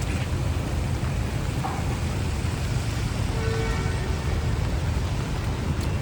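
Rainy city street: a steady low rumble of passing traffic under an even hiss of rain and wet tyres. A brief faint pitched tone sounds about three and a half seconds in.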